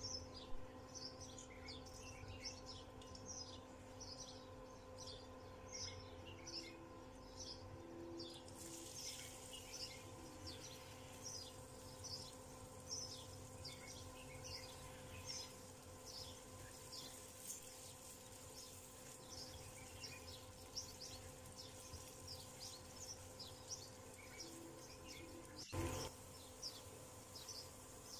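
Faint chirping of small birds, many short high chirps two or three a second, over a steady low hum. A faint hiss joins about nine seconds in.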